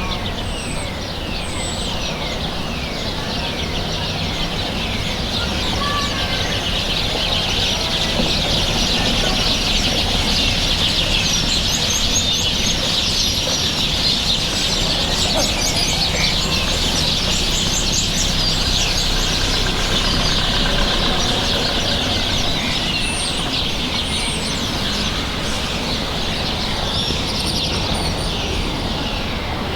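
A flock of birds chirping, a dense chorus of many short falling calls that swells through the middle and eases off near the end, over a low steady rumble.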